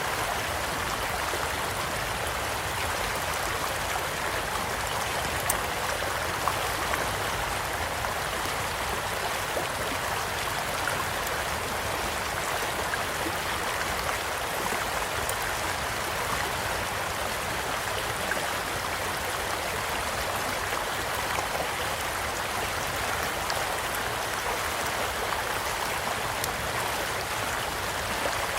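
Steady rushing and gurgling of a small flowing stream, with sparse sharp crackles and pops from a burning wood campfire scattered through it.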